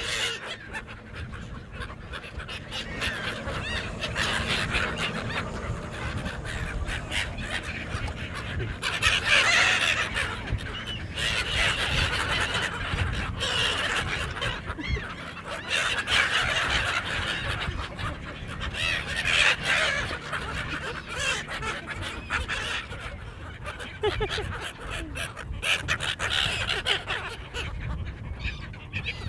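A large flock of seagulls calling at once, many overlapping cries that swell and ease in waves while the birds crowd in to be fed.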